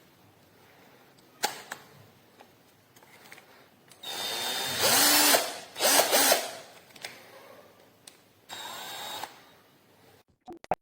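DEKOPRO 20V cordless drill running in three short bursts of about a second each, with a few clicks in between; the motor's pitch slides down as it slows after the first burst.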